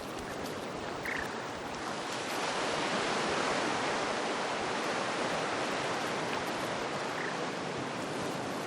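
Surf washing over a rocky shore, a steady rush that swells a couple of seconds in. Two faint brief chirps come through, about a second in and near the end.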